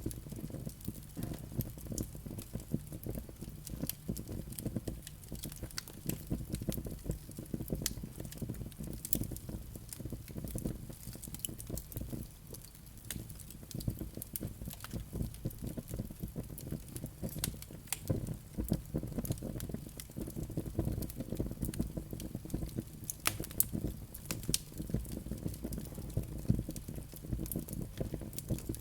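Wood fire burning with a steady low rumble of flames and constant irregular crackles and pops from the burning logs, a few sharper pops in the latter part.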